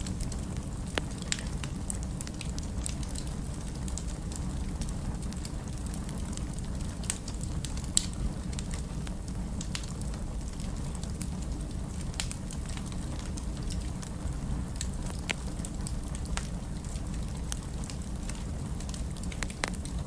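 Fire in a fireplace crackling, with irregular sharp pops over a steady low rumble; the loudest pop comes about eight seconds in.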